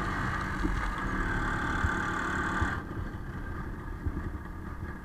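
IZh Planeta motorcycle's single-cylinder two-stroke engine running steadily. About three seconds in, its higher-pitched part drops away suddenly and it gets a little quieter.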